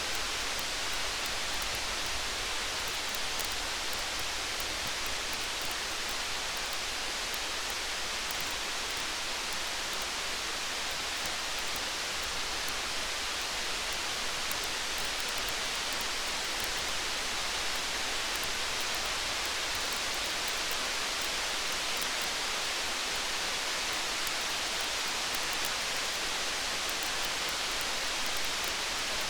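Steady rain falling, an even hiss, with faint small crackles of a campfire scattered through it.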